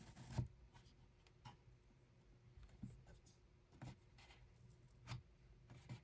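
Faint, irregular knocks and clicks with soft rubbing between them, about one knock a second, typical of a hand loom being worked. The loudest knock comes just under half a second in.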